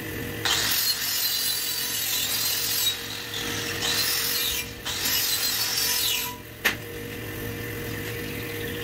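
Cup wire brush on an angle grinder scouring rust and mill scale off steel pipe, in three long passes with short breaks, then a single sharp clank. A steady hum runs underneath.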